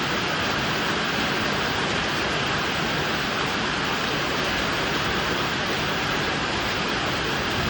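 Heavy rain falling: a loud, steady hiss of rain with no break or change.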